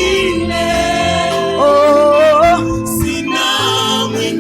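Gospel worship music: a singer holding long notes with vibrato, one sliding up and held about midway, over instrumental backing with a steady bass.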